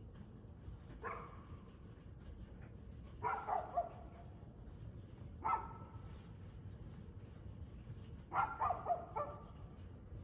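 Dog barking in irregular bouts: a single bark, a quick run of several barks, another single bark, then another quick run near the end.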